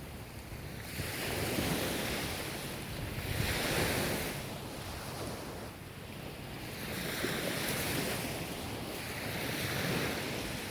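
Ocean waves breaking and washing up the shore, two surges that build and fade about six seconds apart.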